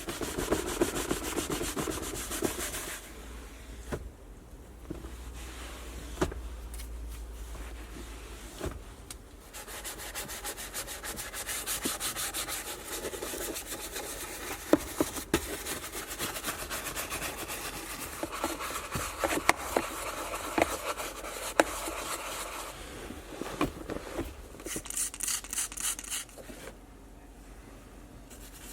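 Rapid scrubbing and rubbing against a car surface as it is worked by hand for detailing, with scattered light clicks and knocks; it pauses briefly twice.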